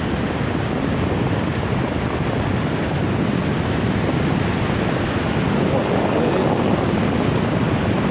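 Steady rushing of the Karatog mountain river, an even wash of water noise with no breaks.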